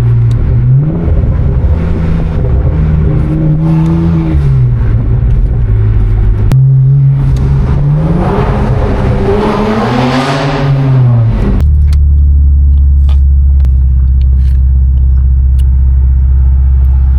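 BMW 335i turbocharged inline-six through catless downpipes and a muffler delete: the exhaust note rises and falls with the revs several times, one long climb and drop in the middle. About twelve seconds in it settles into a steady, heavy low drone.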